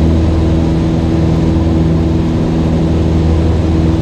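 Cessna 172's piston engine and propeller droning steadily in the cabin during a climb, with a steady low hum under a wash of air noise.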